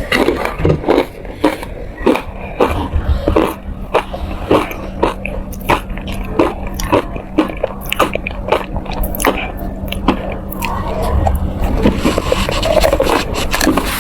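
Ice being bitten and crunched close to the microphone: a rapid run of sharp cracks, several a second, easing into softer chewing in the last few seconds.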